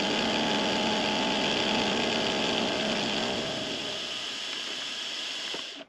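Small benchtop machine tool running steadily while taking a light finishing cut in aluminum. The sound eases off after the middle and stops abruptly just before the end.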